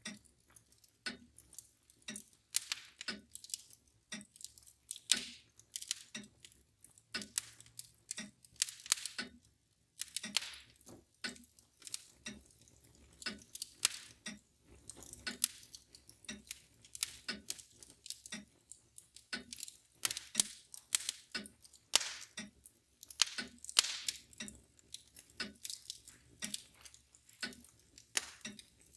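Wood fire crackling with many irregular sharp pops and snaps, over the steady ticking of a mantel clock.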